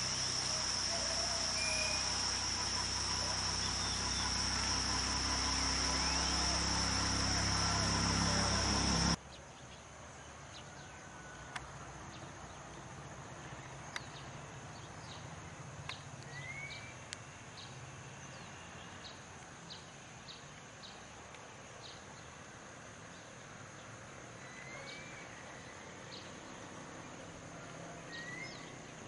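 Steady high-pitched insect drone with a few short rising bird chirps. About nine seconds in, the sound cuts abruptly to a quieter scene where the insect drone carries on faintly and birds give brief rising chirps and sharp ticks now and then.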